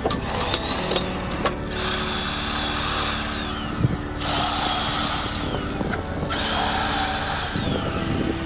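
Electric drill running in three bursts of about two seconds each, its motor whine rising as it starts and falling off as it is released.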